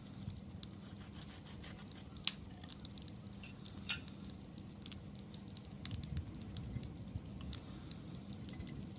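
Wood campfire crackling: irregular sharp pops and snaps over a low, steady rumble of burning, with one louder pop about two seconds in.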